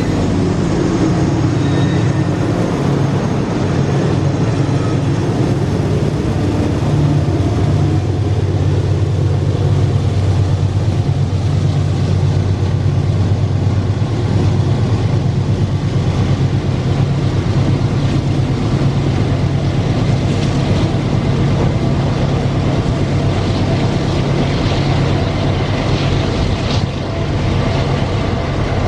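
Wabtec/GE diesel-electric locomotives hauling a heavy iron-ore freight train, their engines running with a steady low drone as the train passes, with a few faint clicks near the end.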